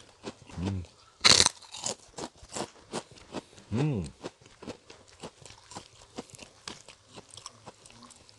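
Close-up crunching of a large kerupuk cracker being bitten and chewed: one loud crisp bite about a second in, then a long run of small crunches. A short hummed "mmm" from the eater about four seconds in.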